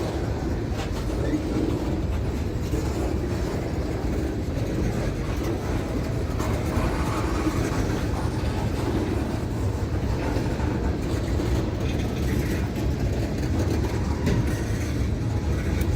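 A train rolling past steadily, its cars running along the rails.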